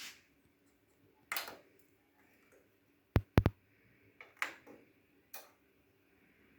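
Scattered clicks and light knocks from the controls of a Yamaha RX-496RDS stereo receiver being handled and switched, with two sharp clicks close together about three seconds in.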